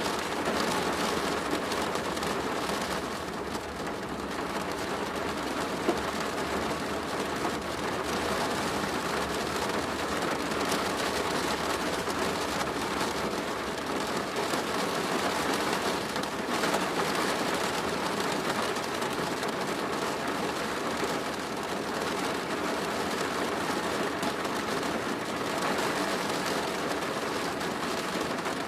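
Steady rain drumming on a plastic roof, a dense patter of drops.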